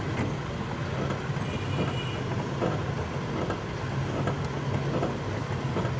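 Steady low hum of a car engine idling, with a few faint clicks.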